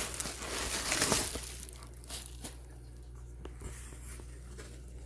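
Packaging being handled and pulled open: rustling and crinkling, busiest in the first couple of seconds, then a few light clicks and knocks.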